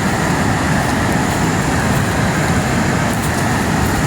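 Waterfall with a fast, heavy flow: a loud, steady rush of falling water.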